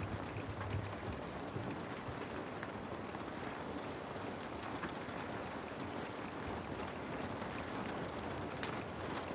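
Steady rain falling, an even hiss with scattered faint drop ticks, played as a study ambience track.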